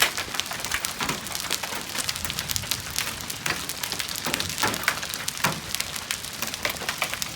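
Hailstones pelting down and striking hard surfaces: a dense, irregular patter of sharp impacts, with a few louder individual hits.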